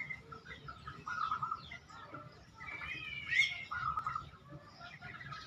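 Zebra dove (perkutut) cooing its short trilled song phrase twice, about a second in and again near four seconds in. Other birds chirp around it, and a low rumble of wind runs underneath.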